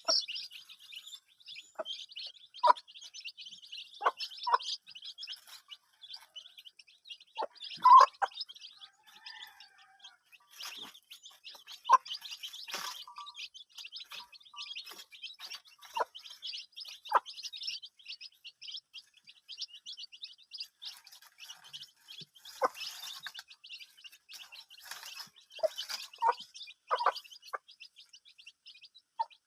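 Many small birds chirping at once in a continuous high chatter, with short, louder, lower single calls breaking through every few seconds.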